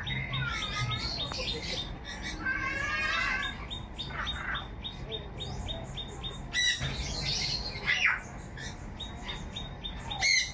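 Birds chirping and twittering, with loud harsh squawks about two-thirds of the way through and again near the end.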